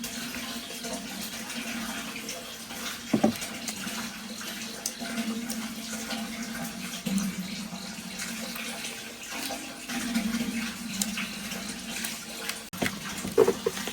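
Water running and splashing, as in washing or bathing, with a sharp knock about three seconds in and a few more knocks near the end.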